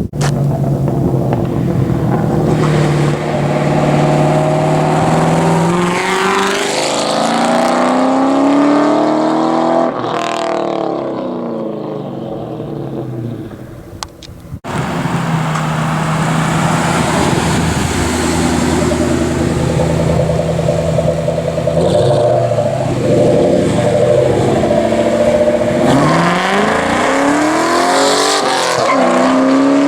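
Ford Mustang 4.6-litre V8 exhaust running on the road, the engine note holding steady, then climbing and falling away as the car speeds up and goes past. The sound cuts off sharply about halfway through, and a second stretch of the same exhaust follows with more rises and falls in pitch.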